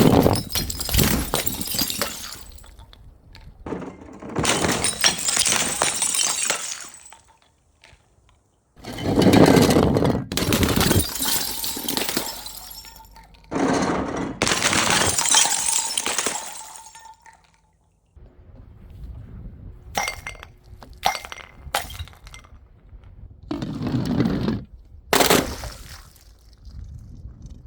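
Glass bottles and jars smashing one after another: about four long crashes in the first half, each trailing off in tinkling, scattering shards, then a string of shorter, sharper knocks and clinks of glass.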